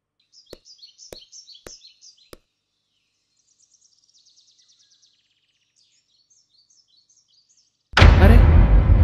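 Small birds chirping and trilling, with four sharp knocks about half a second apart over the first two and a half seconds. Near the end a loud, deep rumbling noise starts suddenly.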